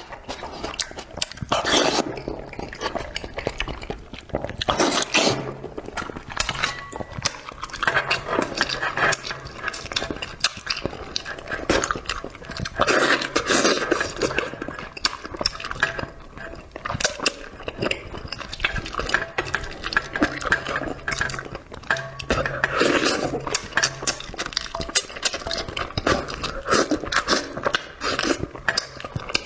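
Close-miked eating: wet chewing and slurping of spicy braised food, with utensils clinking and scraping on dishes, in a dense run of short, irregular mouth and tableware noises.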